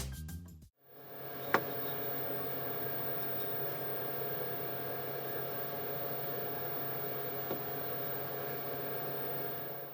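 Background music fading out, then a CNC router running steadily with a constant hum, and one sharp click about a second and a half in.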